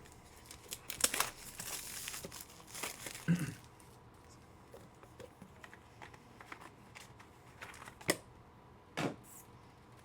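Foil trading-card pack wrappers crinkling and tearing in a rapid cluster as a pack is ripped open, followed by light handling ticks and two sharper clicks near the end.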